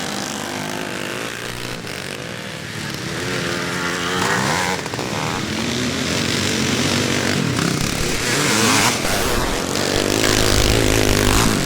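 Several classic motocross bikes racing, their engines revving up and falling back through gear changes, with more than one engine heard at once. The sound swells and is loudest in the last few seconds.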